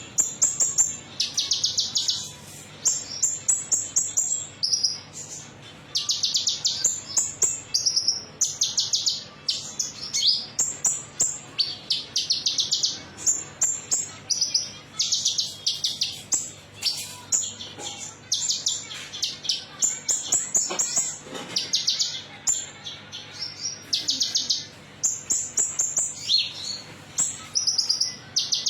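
Konin songbird singing in quick, high, metallic-sounding trills, phrase after phrase with short gaps between them.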